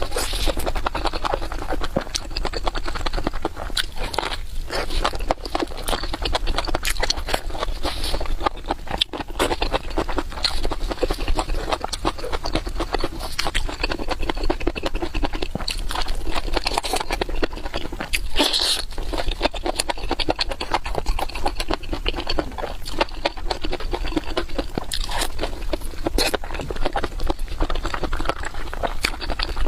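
A person eating close to the microphone: steady chewing with dense, fast crunching clicks.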